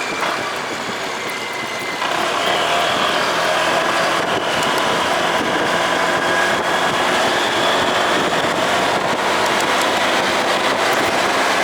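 Motorcycle riding on the road: engine hum under steady wind and road noise, getting louder about two seconds in.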